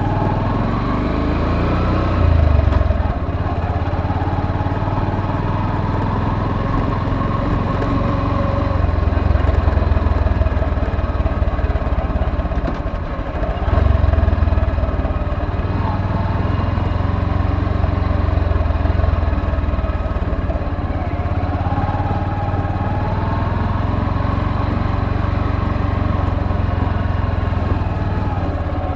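Motorcycle engine running while riding, its pitch rising and falling with the throttle, with a brief dip about two-fifths of the way through and then a surge as it picks up again.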